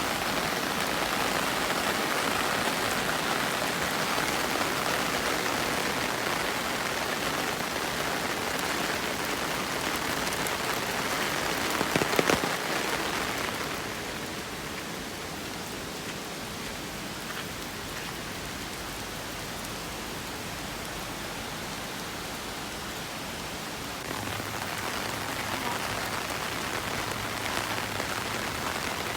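Steady rain falling and splashing on surfaces. About twelve seconds in there is a brief cluster of louder sharp taps. After that the rain is quieter for about ten seconds, then grows louder again near the end.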